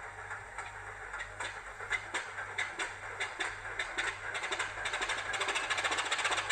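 Sound decoder in a Heljan OO gauge Class 26 model locomotive playing a recorded Class 25 diesel cold start through its small speaker: irregular clattering knocks come faster and louder as the engine turns over and fires up. The build-up stops abruptly at the very end.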